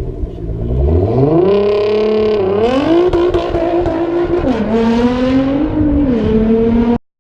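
Car engine under way, its pitch climbing and holding twice, then dropping and rising again as the revs change, before the sound cuts off suddenly near the end.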